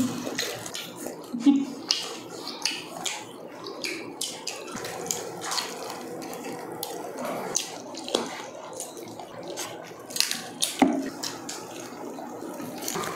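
Close-miked eating sounds: wet chewing, lip-smacking and crackling bites of roast chicken eaten by hand, in irregular clicks and crunches.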